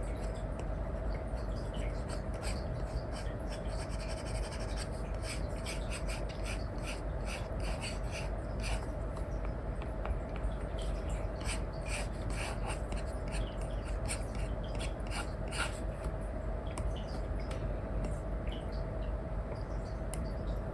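Apple Pencil with an Elecom nib scratching in short strokes on an iPad's paper-like screen film, busiest in the middle stretch, over a steady background hiss with a faint hum.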